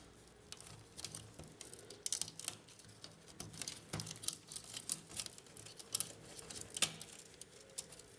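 Irregular small clicks and light taps of plastic and wire as a cable is worked free of its plastic routing supports inside an HP LaserJet P1102 laser printer.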